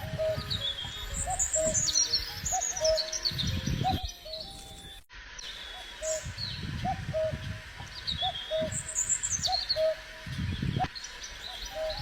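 Birds singing outdoors: high chirps and trills over a steady run of short, repeated low calls, with bursts of low rumble underneath. The sound drops out briefly about five seconds in.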